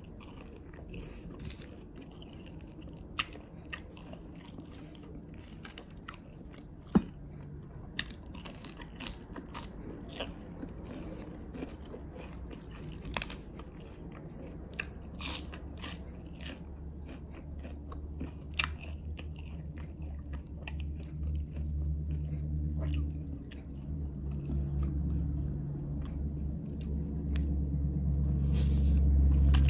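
Close-up eating sounds: biting and chewing with sharp crunches and clicks, growing louder and heavier in the second half. Near the end a short slurp as spicy instant noodles are sucked in.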